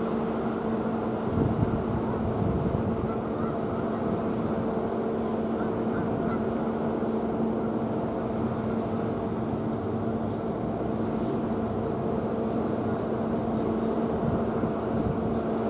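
Diesel engines of rail maintenance-of-way equipment running with a steady, even hum.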